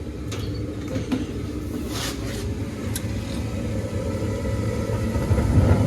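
Gas furnace lighting and firing: a steady low rumble from the burners and fan that grows gradually louder, with a few faint clicks in the first three seconds.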